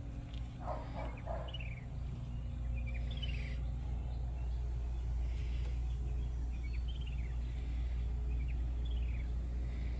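Songbird chirps: short runs of quick falling notes, heard about four times, over a steady low rumble.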